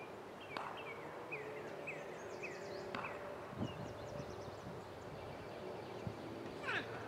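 Outdoor background with a bird chirping a run of short falling notes, over a faint steady hum, with a few sharp clicks and knocks.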